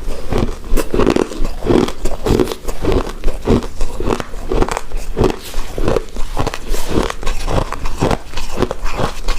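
Close-miked chewing and biting of a soft, chewy rice cake coated in shredded coconut: a continuous run of moist mouth sounds, a few chews a second.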